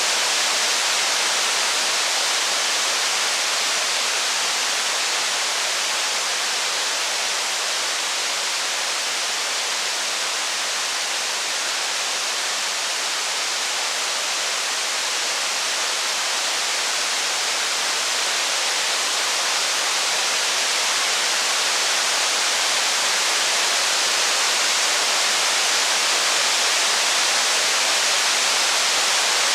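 Steady heavy rain: an even, unbroken hiss with no single drops, crackles or thunder standing out.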